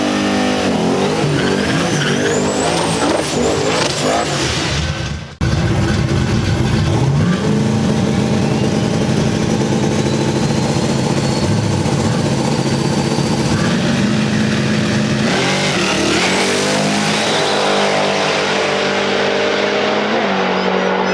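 Drag-racing V8 engines running loud at the strip, their pitch stepping up and down as they rev. There is an abrupt break about five seconds in.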